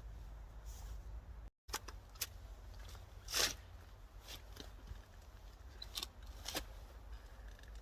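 Scattered short crunches and rustles of freshly dug dahlia tubers and soil being handled, the loudest about three and a half seconds in, over a steady low rumble.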